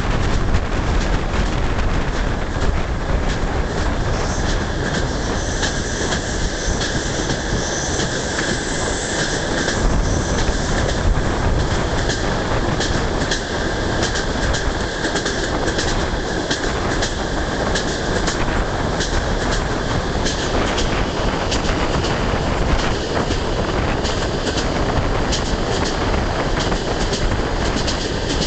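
Russian passenger train running at speed, heard from a carriage window: a steady rush of wheels on rails and wind, with repeated clickety-clack as the wheels pass over rail joints.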